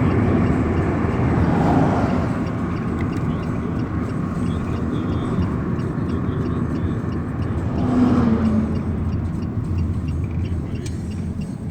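Lada Kalina 2 wagon driving on an open road: steady engine and tyre rumble with road noise. The noise swells briefly about two seconds in and again around eight seconds in, as from passing traffic.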